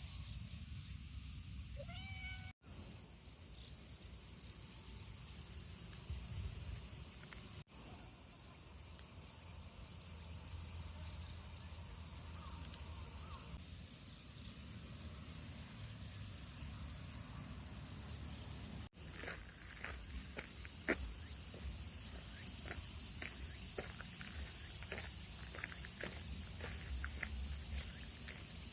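A cat gives a short meow about two seconds in, against a steady high hiss of insects outdoors. Short clicks and chirps come thick through the last third.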